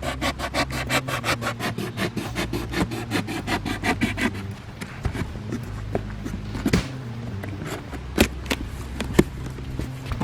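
Rapid back-and-forth rasping strokes, about five a second, which stop about four seconds in; after them a few scattered sharp clicks and knocks.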